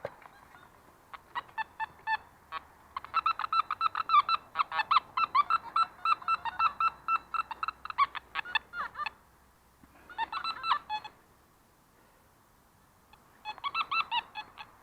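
Metal detector sounding off over a buried target: rapid runs of short, nasal electronic beeps, a long run first, then two shorter bursts after pauses. The beeps mark a coin in the soil, which is dug out right after.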